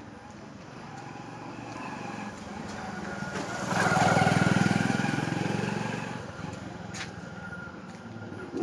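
A motor vehicle engine passing by: it grows louder over the first few seconds, is loudest around the middle, then fades away.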